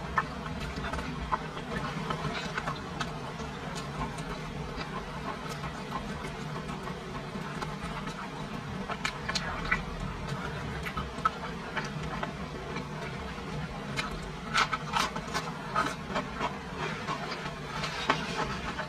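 Close-miked chewing and mouth sounds of someone eating a chunk of seasoned meat: irregular wet clicks and smacks, thicker in bursts a little past halfway and near the end, over a steady low hum.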